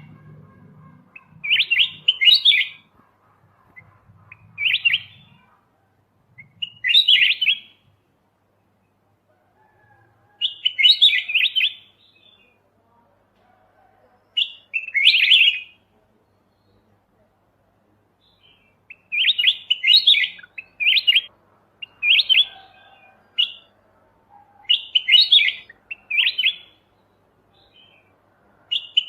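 Kutilang emas (white-eyed golden bulbul) singing: short, bright chirping phrases repeated every few seconds with pauses between, coming in quicker runs near the end.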